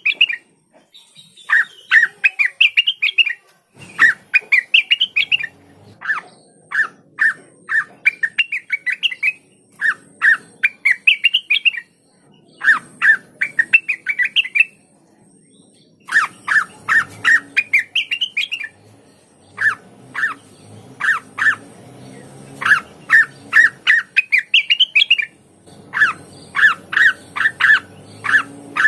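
Cucak wilis (a leafbird) singing: repeated phrases of rapid, stuttering notes, each rising in pitch towards its end, about one phrase every two seconds with short pauses between.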